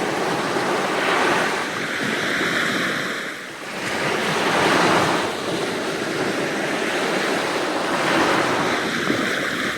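Sea waves breaking and washing onto the shore, the surf noise swelling and easing with a brief lull about a third of the way in.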